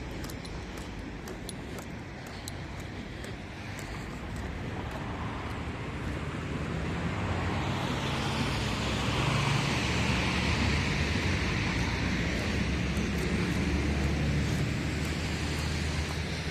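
Road traffic: a motor vehicle's engine and tyre noise grow louder over several seconds and stay loud through the second half, with a low engine hum under the road hiss.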